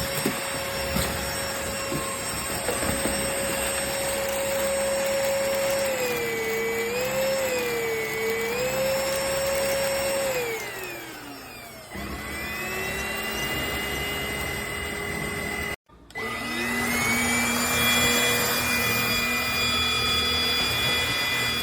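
Cordless stick vacuum motor running with a steady whine that wavers in pitch for a few seconds, then winds down and stops about eleven seconds in. It spins back up, cuts out briefly, and starts again, settling at a lower pitch.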